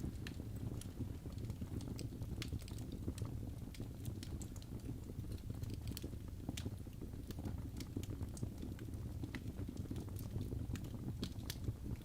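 Wood fire burning in a fireplace: a steady low rumble with frequent irregular sharp crackles and pops from the logs.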